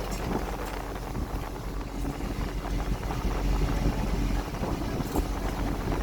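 Tuna fishing boat's engine running steadily with a constant low rumble and hum, with wind noise on the microphone.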